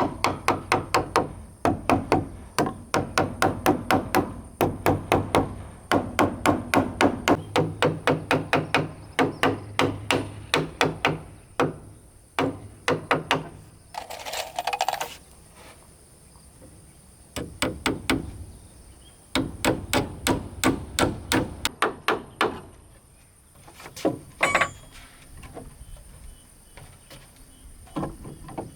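Hammer striking wood in fast runs of about four blows a second, with a few pauses and single blows later. There is a brief scraping sound about halfway through.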